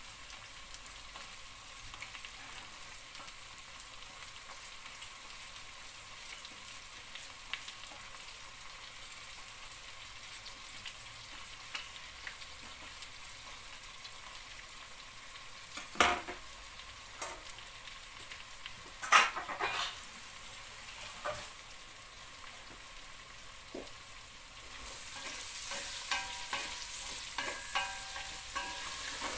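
Meat and chopped onion frying in a stainless steel pot, a steady sizzle with faint knife clicks as an onion is cut into it. There are a couple of louder knocks midway, and the sizzle grows louder near the end as the pot is stirred with a wooden spoon.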